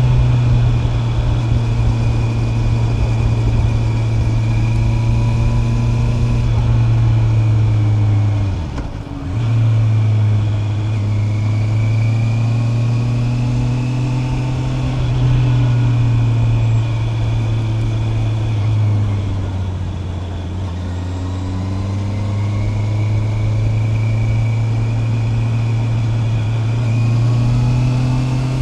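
Honda CB650R's inline-four engine running under way, its pitch rising and falling gently with the throttle. About a third of the way in the engine note dips briefly, then picks up again.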